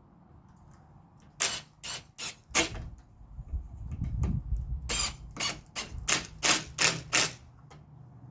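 A run of sharp knocks in two bursts: four spaced strikes, a low rumble, then about eight quicker knocks, roughly three a second.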